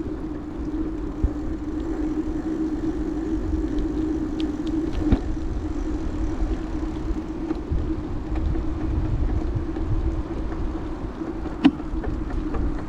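Riding noise from a bicycle: tyre rumble and wind on the microphone with a steady low hum, and two sharp knocks, about five seconds in and near the end.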